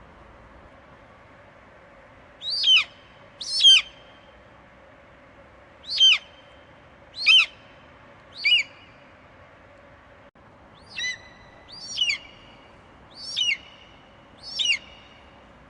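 Eagle screeching: nine short, shrill screams at uneven intervals, each one falling sharply in pitch, over a faint steady hiss.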